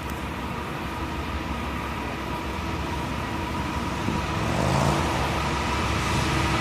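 Diesel freight locomotives approaching, a steady engine drone with held tones growing louder, with a rising engine note and more rumble and hiss coming in about four seconds in.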